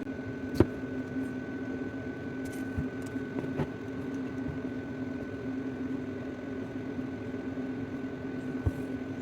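A few light metallic clicks and taps of circlip pliers working a circlip off a steel shaft, over a steady workshop hum that carries a constant faint high tone.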